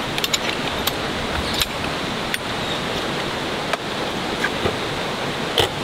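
Steady hiss of rain falling, with a few light clicks and taps scattered through it.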